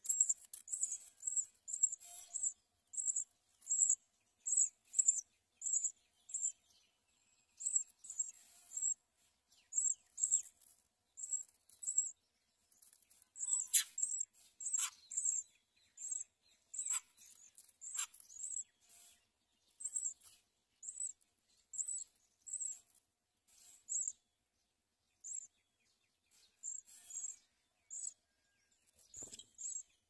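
Small bird chirping at a nest: short, high-pitched chirps repeated about twice a second, with a few sharper calls sweeping down in pitch around the middle.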